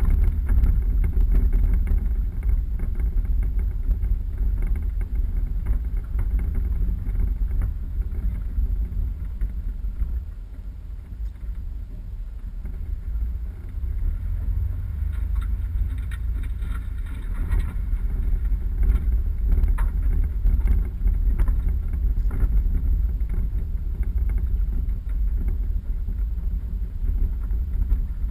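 Four-wheel-drive vehicle driving off-road: a steady low rumble with many small knocks and rattles, dropping a little in level for a few seconds about ten seconds in.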